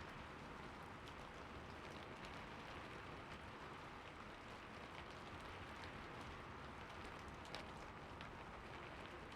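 Faint, steady light rain: an even hiss with scattered single drops ticking, one a little louder near the end.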